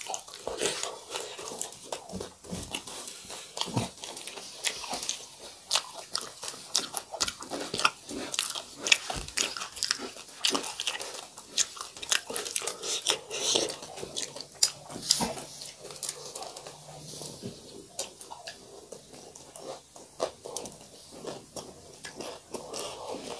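Close-miked eating: biting and chewing crunchy food from a meal of fried chicken and beaten rice (chiura), with many sharp, irregular crunches several times a second.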